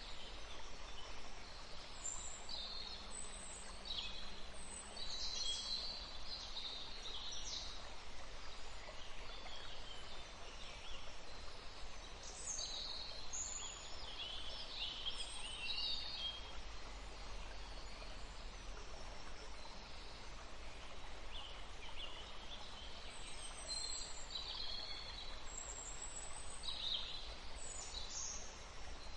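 Forest birds chirping and singing, with many short high calls coming in clusters and a few quieter gaps, over a steady background hiss.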